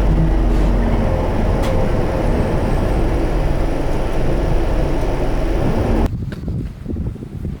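Train running, heard from inside the car: a steady low rumble with a faint motor whine. It cuts off abruptly about six seconds in.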